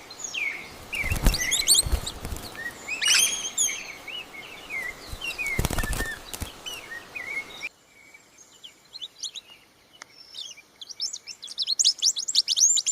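Birds calling and chirping, in short rising and falling calls over a background of forest noise, with two low thuds at about one second and about six seconds. Just before eight seconds the background suddenly drops away, and quick runs of high chirps build toward the end.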